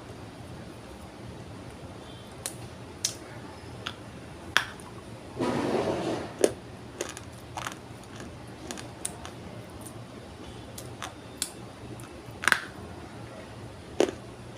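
Dry multani mitti (Fuller's earth) clay being crunched: scattered sharp snaps and crackles, with a longer crumbling crunch about five and a half seconds in.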